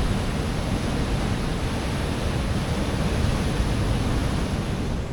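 Large ocean swell breaking and washing over a rock ledge: a steady rush of surf with a deep rumble underneath.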